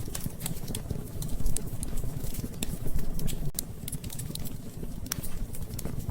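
Wood fire crackling in a fireplace: irregular sharp pops and snaps over a low, steady rumble from the flames.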